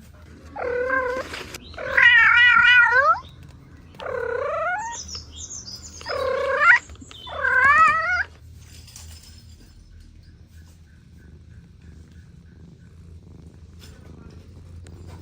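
A cat meowing: five wavering meows over the first eight seconds, each about a second long, the second one the longest.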